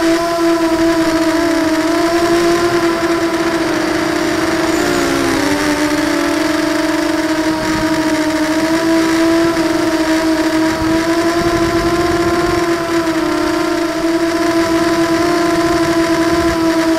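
QAV250 FPV racing quadcopter's motors and propellers whining at a steady pitch, which dips briefly about five seconds in and comes back up.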